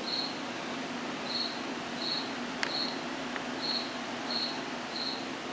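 A cricket chirping: short, high-pitched chirps repeating roughly every three-quarters of a second. A single sharp click comes about halfway through, over a low steady hum.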